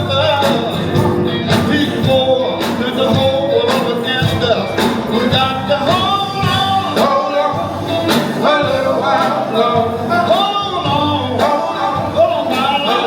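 Live gospel music: a band plays with regular drum hits while voices sing.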